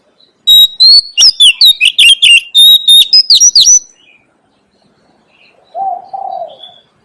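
Oriental magpie-robin singing a loud, fast phrase of varied whistled and scratchy notes lasting about three seconds. Near the end a short, lower two-part call follows.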